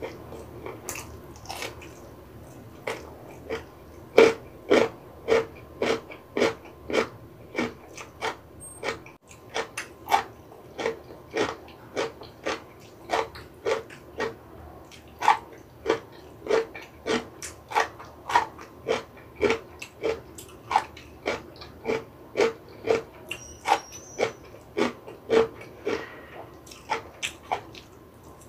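Close-miked crunchy chewing of radish kimchi, a steady crunch about twice a second that begins a few seconds in.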